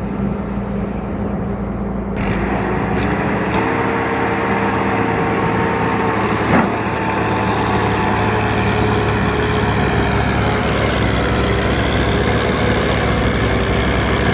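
Tractor engine running steadily, working hard. The sound changes abruptly about two seconds in, and there is a single knock partway through.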